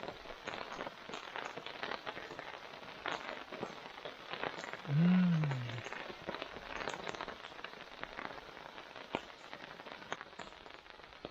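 Rain falling steadily on surfaces, with scattered sharp drip-like ticks. About halfway through comes a brief low hum-like tone that rises and falls, louder than the rain.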